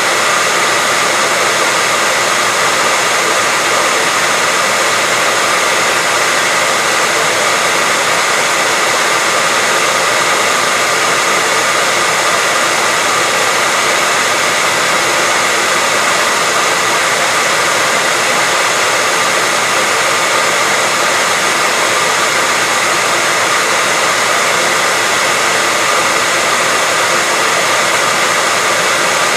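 Hair dryer running continuously at a constant speed: a steady rushing noise of motor and airflow with a faint high whine.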